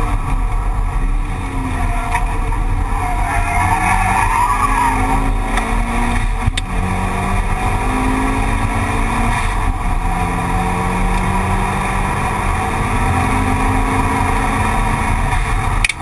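Mitsubishi Lancer Evolution VI Tommi Mäkinen Edition's turbocharged four-cylinder engine, heard from inside the cabin under hard acceleration. Its pitch climbs and drops back at each gear change, several times over. A single sharp knock comes about six and a half seconds in.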